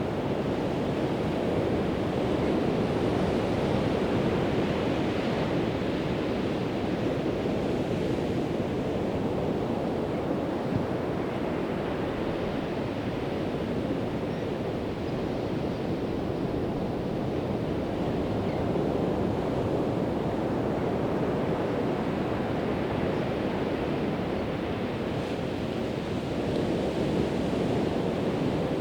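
Pacific Ocean surf breaking on a sandy beach, a continuous wash of waves that swells and eases slowly.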